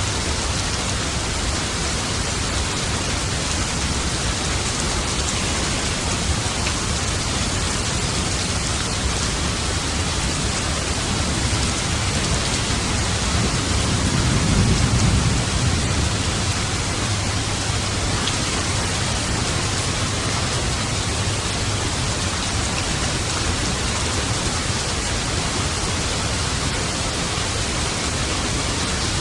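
Steady heavy rain falling, an even hiss without a break, with a low roll of distant thunder swelling and fading about halfway through.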